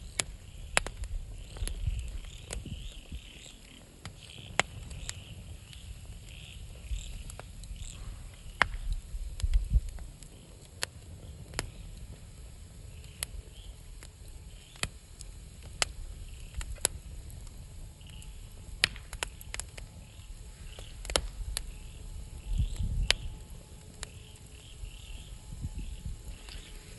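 Campfire wood crackling with irregular sharp pops, over insects chirping over and over in the background.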